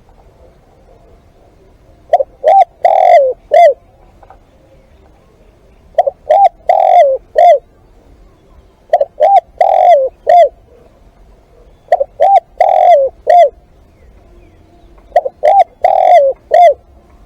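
Spotted dove cooing: five repeated phrases about three seconds apart, each of four or five short coos with one longer, drawn-out coo in the middle.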